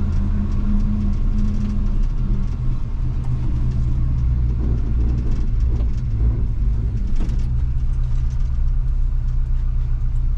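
1980 Chevy K20 pickup's engine running steadily with a low rumble.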